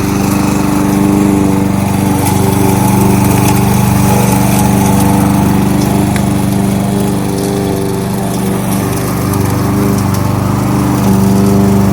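Kohler XT-675 single-cylinder engine of a walk-behind push lawnmower running steadily at mowing speed, with small dips and swells in pitch and level.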